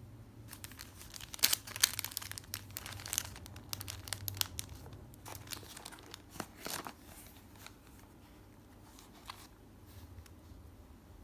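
Packaging crinkling and crackling as it is handled and torn open. The crackles are busiest over the first seven seconds, then thin out to a few scattered ones.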